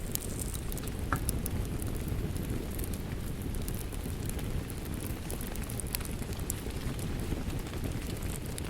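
Steady rain with a wood fire crackling: a constant low rushing under scattered sharp pops and snaps.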